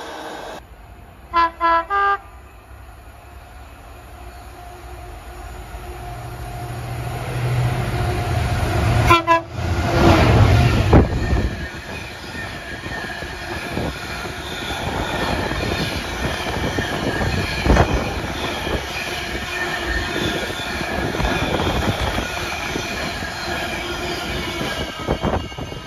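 A freight locomotive sounds its horn in short blasts about a second in, and briefly again as it draws level. It passes at speed with a heavy rumble, loudest around ten seconds in. A long rake of bogie hopper wagons follows, rattling and clattering over the rails until they have gone, near the end.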